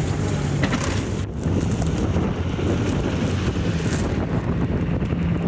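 Blizzard wind buffeting the microphone: a loud, steady low rush.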